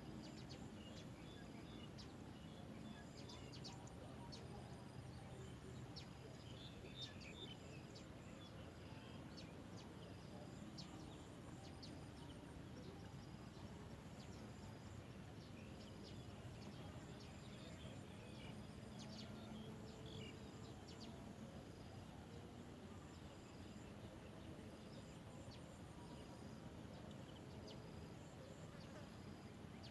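Faint outdoor ambience: an insect's short high trill repeating at steady intervals, with scattered brief high bird chirps over a steady low hum.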